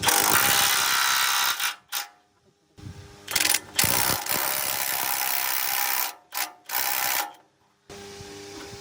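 A workshop power tool running in three bursts of a few seconds each, with short near-silent gaps between them.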